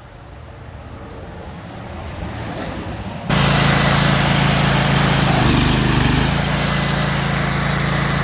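Portable sawmill running as it makes a cut through a hemlock log: the machine builds gradually at first, then about three seconds in turns abruptly much louder, with a steady engine drone under the hiss of the blade cutting through the wood.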